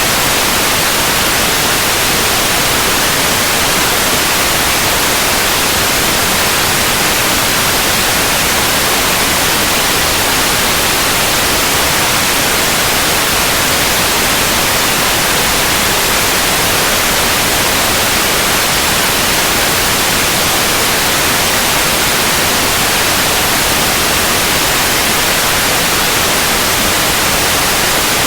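Steady, loud white noise, an even hiss with no change or events, played as a sleep sound.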